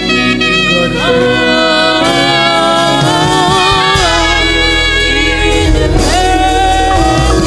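Live gospel worship band playing: a lead melody scoops up into long held notes over keyboard chords, and a deep bass line comes in about four seconds in.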